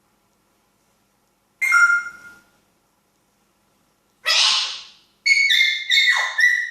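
African grey parrot vocalising in separate bursts: a pitched call about a second and a half in, a harsher, noisier squawk about four seconds in, then three quick pitched calls in a row near the end.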